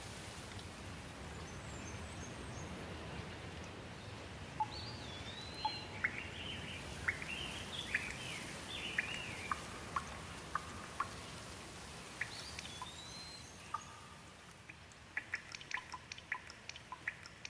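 Steady rain falling, with birds chirping and calling over it. Near the end the rain thins out and separate water drips tick sharply.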